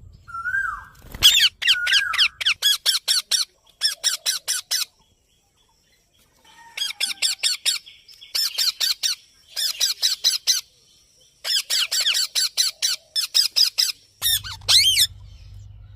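Indian ringneck parakeet calling in bursts of quick, repeated high-pitched squawks. There are several short runs of notes, with a pause of about a second and a half partway through.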